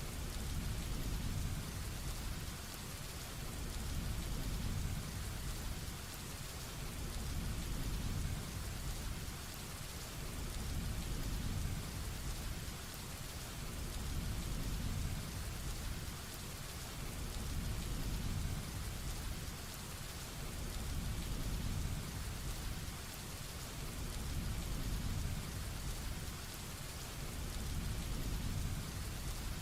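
Heavy rain falling in a steady hiss, under a low thunder rumble that swells and fades every few seconds.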